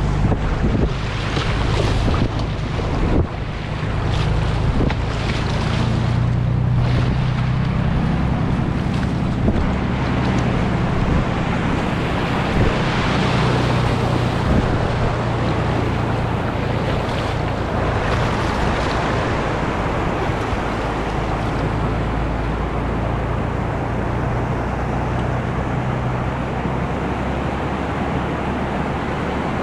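Whitewater rapids rushing steadily, with wind rumbling on the microphone and a few brief knocks in the first few seconds.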